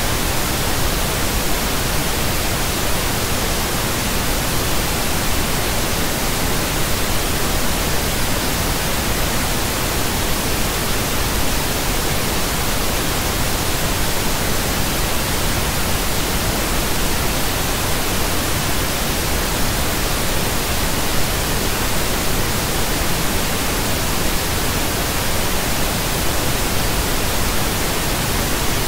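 Pink noise: a steady, even hiss spread across the whole range of pitch, with no change over time.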